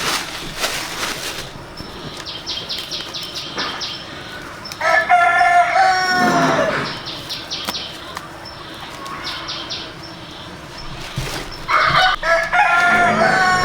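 Rooster crowing twice, about five seconds in and again near the end, each crow a long held call that drops in pitch at its close. Rapid high-pitched trills sound between the crows.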